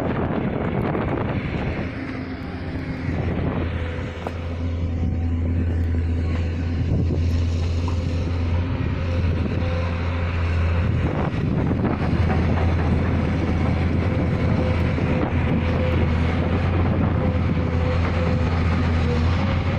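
Heavy diesel machinery running steadily with a deep hum, loading equipment on a nickel-ore barge, with wind buffeting the microphone.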